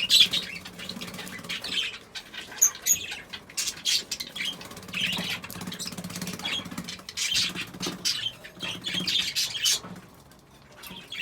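Pet budgerigars chirping and squawking in short, busy calls, with a brief lull near the end.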